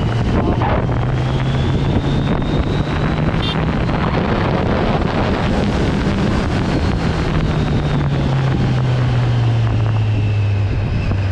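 Kawasaki Z900's inline-four engine running steadily as the motorcycle is ridden, its pitch drifting up a little and then down, with wind buffeting the microphone.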